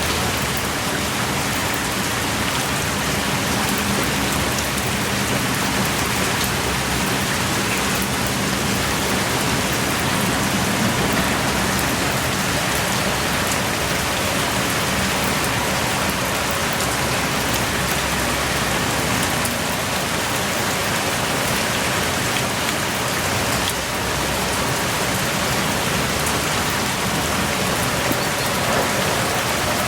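Heavy rain pouring steadily, with fine drops pattering on surfaces.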